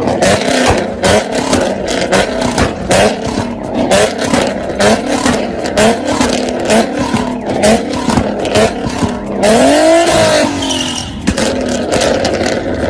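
A car with a very loud exhaust revved in quick repeated blips, about two a second, each with a sharp crack. About ten seconds in comes one longer rev that rises and falls.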